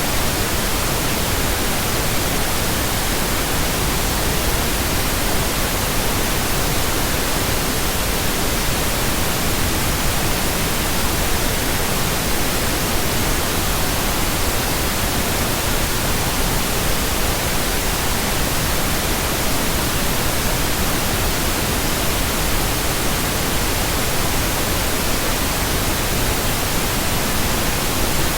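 Steady pink noise: an even, unbroken hiss across the whole range, with no changes or events.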